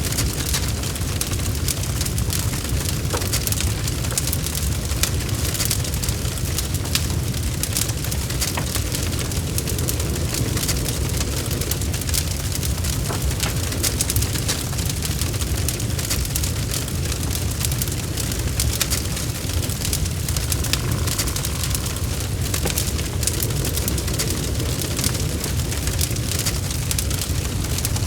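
Wood logs burning in a fireplace: a steady low rumble of the fire with many small, irregular crackles and pops.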